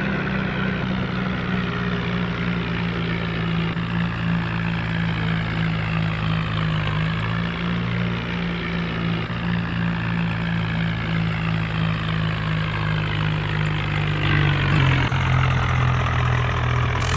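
Tractor engine running steadily at low speed; its pitch drops slightly near the end.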